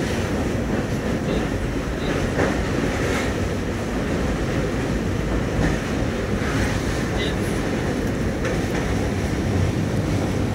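Passenger train running, heard from inside a coach at the window: a steady rumble of the moving train.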